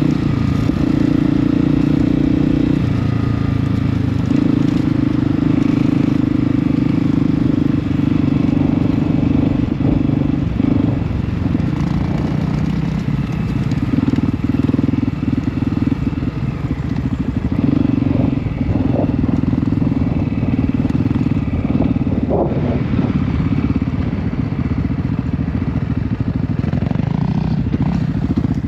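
Honda CRF250F's single-cylinder four-stroke engine running under load, its pitch stepping up and down as the throttle opens and closes, with a few brief knocks along the way.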